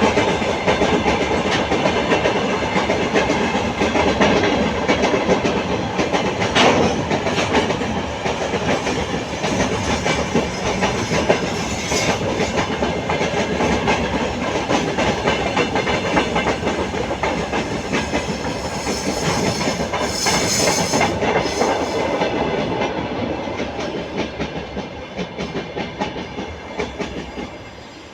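Freight train hauled by a 2ES4K "Donchak" electric locomotive rolling past, its wheels clattering over the rail joints with occasional sharp clicks. The sound fades over the last few seconds.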